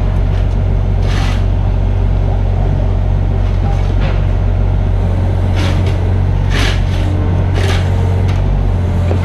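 Mini excavator's diesel engine running steadily under load, with about six short, sharp noises over it during work.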